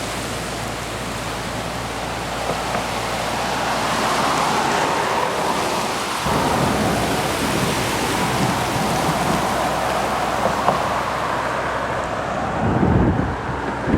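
Steady rushing noise of the swollen, flooding Yakima River. From about halfway through, wind buffets the microphone with an irregular low rumble.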